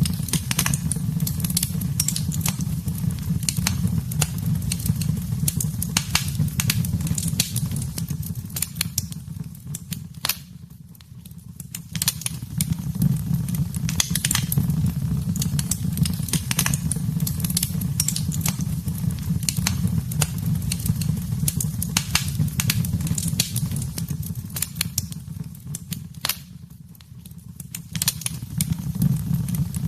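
Wood fire crackling in a fireplace: frequent sharp pops and snaps over a steady low rumble. The sound dips briefly twice, about a third of the way in and near the end.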